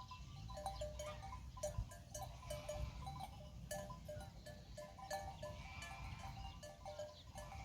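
Pastoral ambience of a grazing flock bleating, with short, repeating bell-like notes throughout and a steady low rumble underneath.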